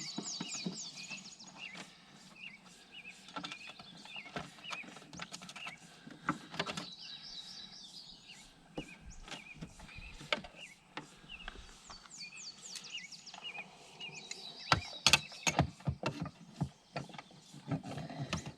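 Hand tools clicking and knocking on metal parts, irregularly, as wiring is worked loose from a hot tub heater's box, with several bursts of high chirping.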